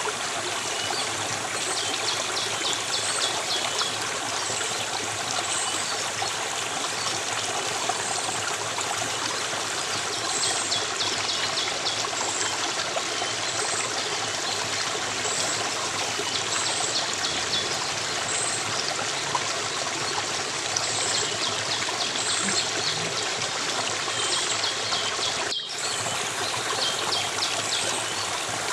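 A stream of water flowing and trickling steadily, with short high chirps and brief trills repeating over it every second or two. The sound drops out for an instant about 25 seconds in.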